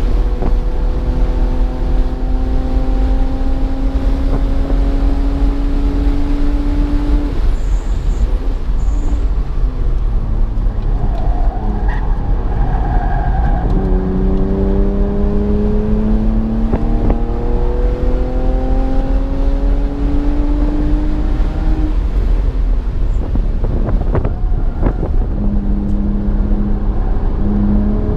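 BMW's engine pulling hard on a track lap, heard from inside the car: its pitch climbs slowly in long stretches, broken by a few sudden drops and jumps as the driver shifts and comes on and off the throttle for corners.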